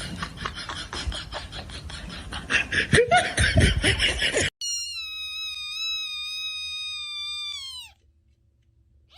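A rhythmic rustling, pulsing noise, about four beats a second, cut off suddenly about halfway through; then a single long, high-pitched cat meow, held steady for about three seconds and dropping in pitch as it ends.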